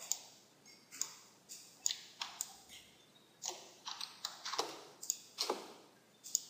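Clicking of a computer mouse and keyboard: about a dozen short, sharp clicks at uneven intervals, as parts of a 3D model are selected and edited.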